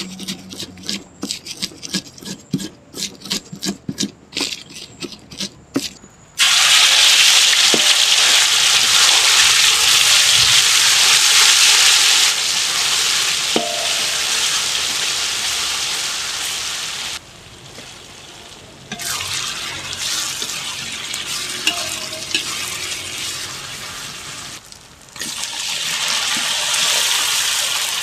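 Stone pestle grinding chilies, shallots and garlic on a stone mortar in quick rhythmic strokes, a few a second. About six seconds in, a spice paste starts frying in hot oil in a metal wok with a sudden loud sizzle that runs on, easing off twice and returning, while a metal spatula stirs it.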